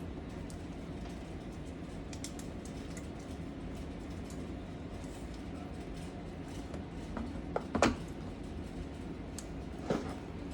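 Steady low kitchen hum with a few sharp clicks of utensils or dishes, the loudest about eight seconds in and another near the end.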